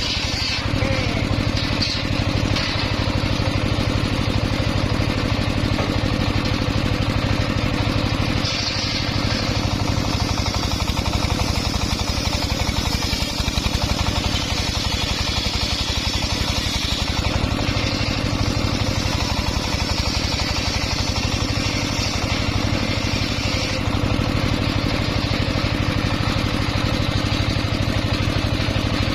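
Engine-driven homemade circular saw rig running steadily, with a higher whirring hiss that swells about nine seconds in and again around eighteen seconds as the blade works.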